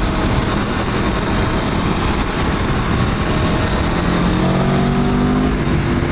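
Aprilia Tuono V4 motorcycle's stock-exhausted V4 engine running under way, its note shifting slightly about four seconds in, heard through a heavy steady rushing noise.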